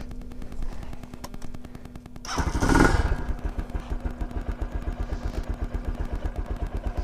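Lifan KP single-cylinder motorcycle engine being started. A faint ticking whir gives way, about two and a half seconds in, to the engine firing with a loud surge, and it then settles into a steady idle of even low pulses.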